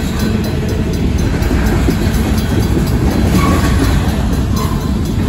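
Freight cars of a Union Pacific mixed freight rolling steadily past at close range: a continuous rumble of steel wheels on the rails, with clacking as the trucks cross the rail joints. A Safetran mechanical crossing bell rings in a steady rhythm over it.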